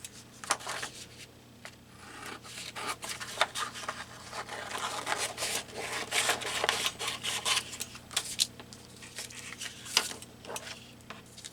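Paper and tape being handled by hand: irregular rustling, scraping and light clicks, busiest in the middle, with a sharper click about ten seconds in.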